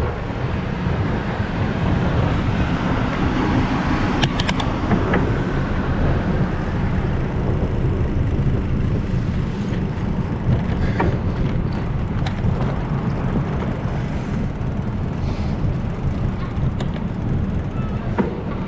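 Steady low rumble of a moving bicycle ride picked up by the camera, wind and rolling noise together, with a few short clicks.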